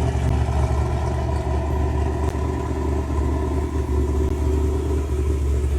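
Car engine idling steadily, a deep even drone with no change in speed.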